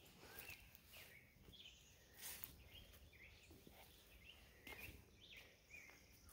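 Near-silent outdoor quiet with faint, scattered bird chirps, and two soft rustling noises about two and five seconds in.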